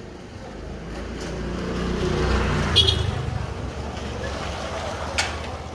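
A motor vehicle passing on the street, its low rumble swelling to a peak midway and fading again, with a brief sharp sound just after the peak and another near the end.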